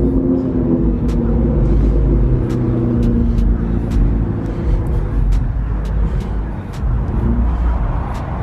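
Car engine running at low speed with a low, steady rumble, and a regular ticking about every two-thirds of a second.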